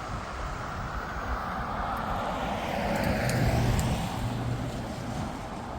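A vehicle passing, its noise swelling to a peak about three and a half seconds in, with a brief low hum, then fading.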